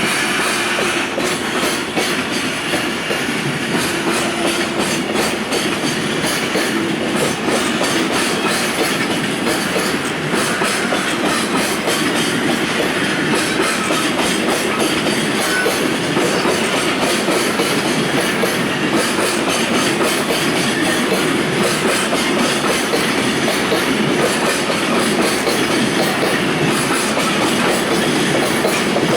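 Container wagons of a freight train rolling past steadily, their wheels clacking over the rail joints.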